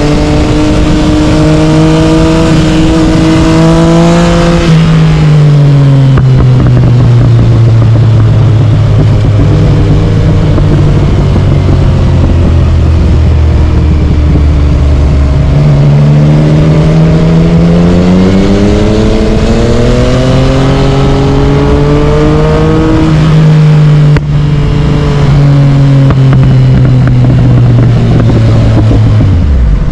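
Yamaha MT-09 three-cylinder engine through an Akrapovic carbon exhaust, riding under load. It revs up for the first few seconds, drops around five seconds in, then sags slowly. It climbs again from about sixteen seconds with a gear change near twenty-three seconds, and falls off again at the end.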